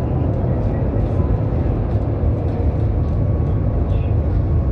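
Tram running along the track, a steady low rumble.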